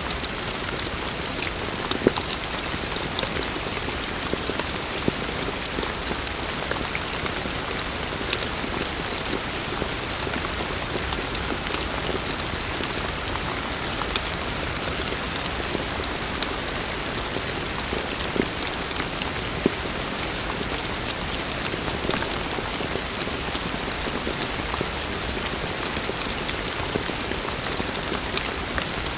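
Heavy rain falling steadily, a dense even hiss with scattered louder individual drops striking a surface.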